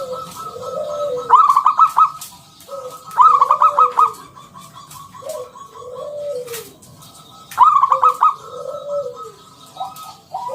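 Zebra dove (perkutut) cooing song: three loud bursts of rapid staccato notes, with softer, lower coos repeating between them.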